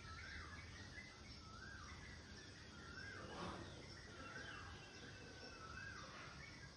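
Faint outdoor ambience with a bird repeating a short rising-and-falling whistled call about once every second and a half, over a steady low background noise; a brief harsh sound breaks in about three and a half seconds in.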